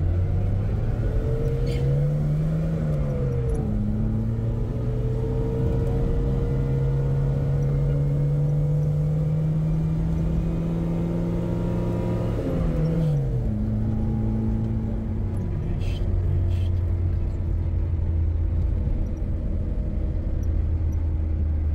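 Car engine under way, heard from inside the car: its pitch climbs, drops suddenly about three and a half seconds in and again about thirteen seconds in as it shifts gear, then holds fairly steady.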